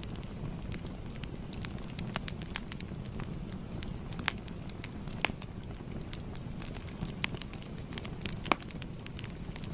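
Wood fire burning, with a steady low rush of flames and frequent irregular sharp crackles and pops, two of them louder about five and eight and a half seconds in.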